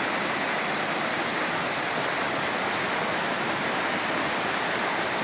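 Wulai Waterfall's falling water, a steady, even rush of noise that does not change.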